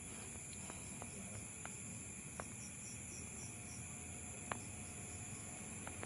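Steady high-pitched insect chorus, with a short run of evenly spaced chirps in the middle. A few faint sharp clicks are scattered through it, the loudest about four and a half seconds in.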